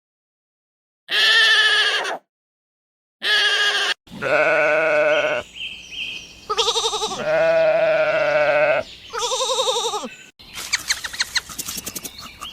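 A series of bleats from farm animals, each call a second or so long with short silent gaps between the first few. Near the end the calls stop and give way to a rapid pattering of small clicks.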